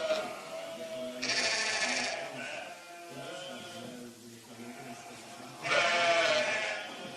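Young dairy livestock calling out repeatedly for their mothers, with two loud drawn-out calls about a second in and near the end, and softer calls between them.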